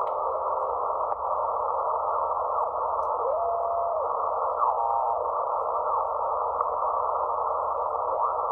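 Elecraft K2 transceiver's receiver audio while being tuned across the band: a steady hiss of band noise through a narrow filter, with brief whistling carriers gliding past a few times, one held for under a second about three seconds in. The noise remains with the house's main breaker switched off.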